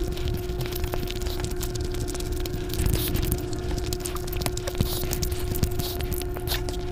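Close-miked eating of a mouthful of biryani and mutton: wet chewing with many quick mouth clicks and smacks, then fingers squelching through the rice near the end. A steady low hum runs underneath.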